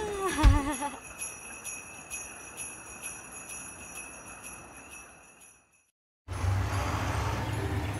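Jingle bells shaken in a steady rhythm as the closing music of a Christmas cartoon, fading out over about five seconds. After a short silence, a low steady hum and background noise start up near the end.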